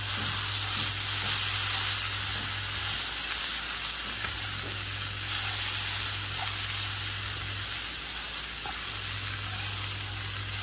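Poha and sprouted moong sizzling in an oiled nonstick kadai while a wooden spatula stirs and scrapes through them: a steady frying hiss with light scraping. A low hum underneath cuts out and comes back twice.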